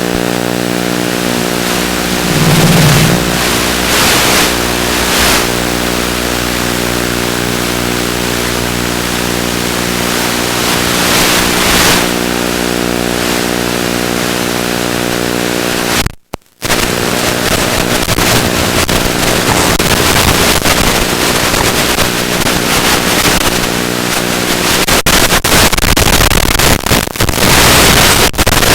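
ZOHD Drift FPV plane's electric motor and propeller running at a steady throttle, a constant whine with many overtones, under wind rush on the onboard microphone that swells in gusts. The sound cuts out for a moment a little over halfway through.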